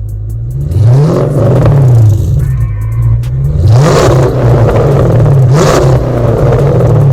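Cammed 5.3L V8 of a Chevrolet Silverado Z71 pickup revved from idle in about four quick blips, each rising sharply and falling back to idle.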